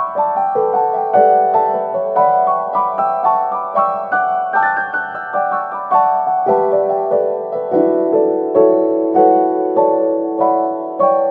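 Background piano music: a melody of struck notes in a steady, unhurried rhythm.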